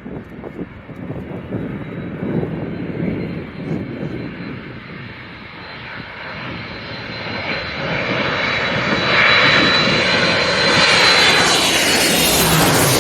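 Airliner landing, passing low overhead on final approach. Its engine noise builds steadily and swells sharply over the last few seconds, loudest near the end. A thin high whine runs through it, and the pitch drops as the plane goes by.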